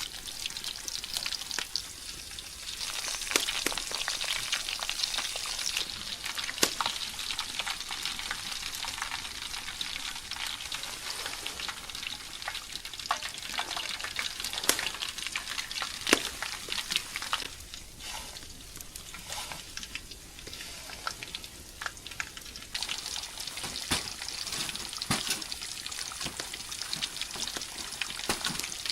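Chicken pieces frying in hot oil, sizzling steadily with frequent sharp pops and crackles.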